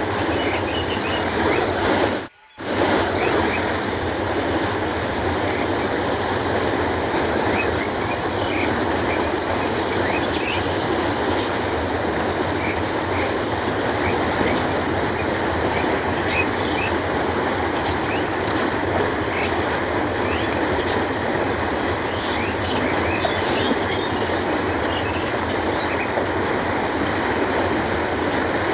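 Canal water flowing with a steady, continuous rush, with faint bird chirps scattered through it. The sound cuts out for a fraction of a second about two seconds in.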